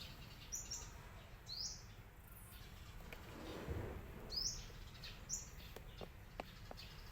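Short high bird chirps repeating about once a second over a low steady background. There is a brief rustling swell near the middle and a few faint clicks toward the end.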